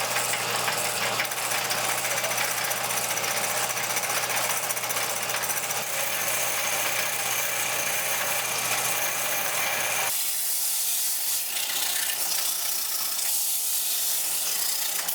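A power tool working metal, loud and steady throughout, with a steady low hum underneath that drops away about ten seconds in while the harsh higher noise carries on.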